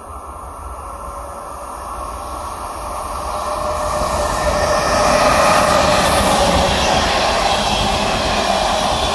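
A train approaching along the track, growing steadily louder over about five seconds and then running past loud and steady, with a sustained high whine from the wheels and running gear over the rumble.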